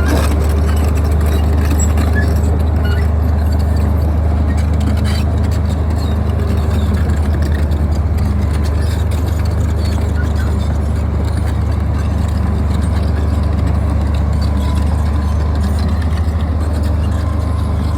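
Bulldozer's diesel engine running steadily at a constant pitch, with a couple of faint knocks.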